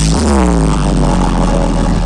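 Loud electronic dance music played through a large sound system, with a heavy, steady bass. A synth tone glides down in pitch during the first second, then holds.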